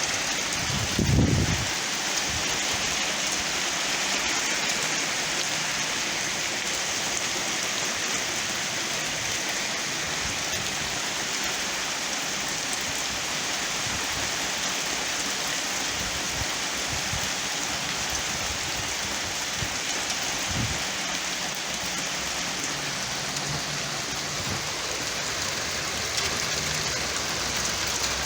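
Small hail, about a quarter inch, falling steadily in a continuous even hiss, with a low thump about a second in.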